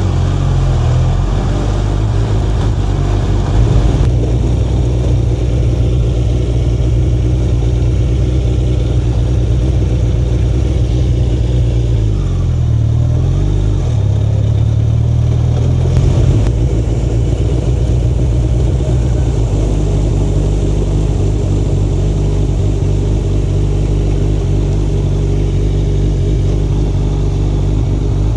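Suzuki Hayabusa's inline-four engine running steadily under way, its revs dropping and picking up again about halfway through.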